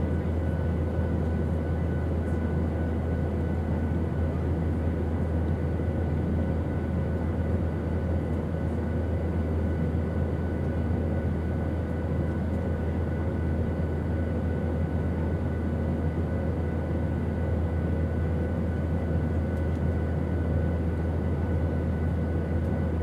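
Steady airplane engine drone: a constant low hum with faint, unchanging whining tones above it.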